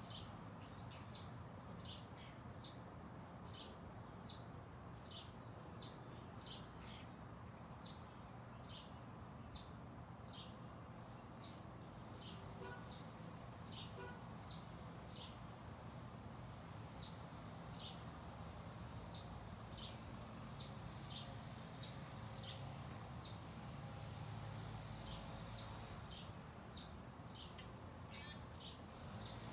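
A bird calling repeatedly, a steady run of short high chirps at about one to two a second, over a faint low hum.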